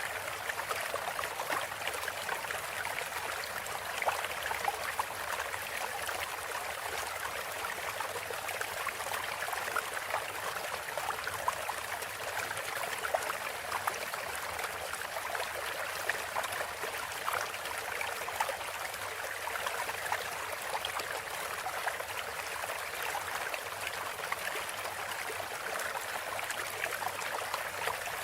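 Flowing water trickling and babbling steadily, like a small stream, with no birdsong over it.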